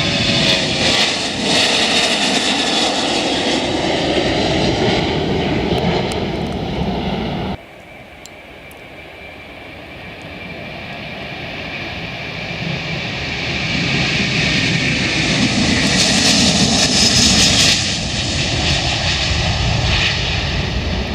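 Jet airliner taking off, its engines loud and steady, cutting off suddenly about seven seconds in; then a second airliner's engine noise builds up to a peak and cuts off abruptly near the end.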